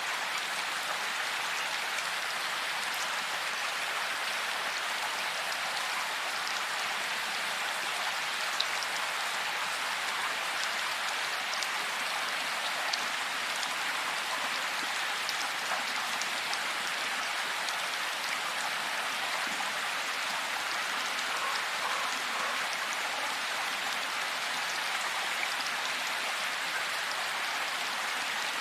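Steady heavy rain falling, an even hiss with scattered sharp drops ticking through it.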